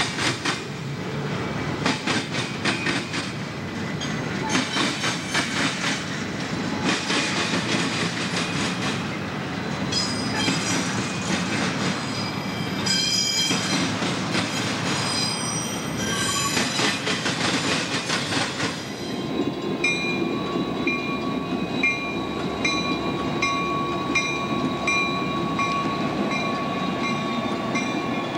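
Double-stack container cars of a CSX intermodal freight rolling past, wheels clacking in a rhythm over the rail joints, with high wheel squeal in the middle stretch. Near the end the sound changes to a steady high tone with a regular pulsing beat.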